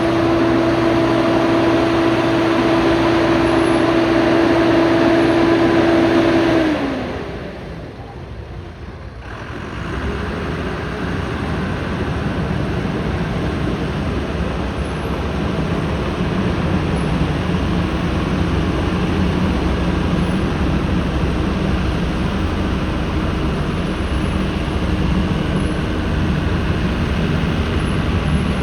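Vehicle engine noise. A loud, steady high tone holds, then slides down in pitch and stops about seven seconds in. After a brief quieter gap, a lower, rougher engine sound starts up and runs steadily.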